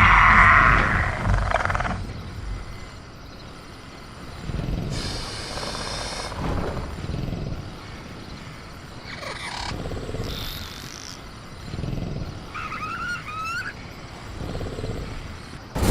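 Velociraptor sound effects: a loud screeching call that fades out about two seconds in, followed by quieter growls and rumbles and a short warbling call about thirteen seconds in.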